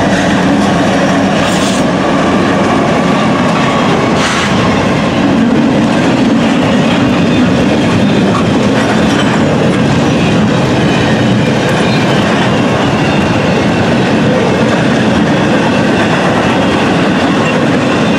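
Loud, steady noise of a double-stack intermodal freight train passing close by. The lead diesel locomotives run past at the start, then the wheels of the container cars roll along the rails, with a couple of sharp knocks in the first few seconds.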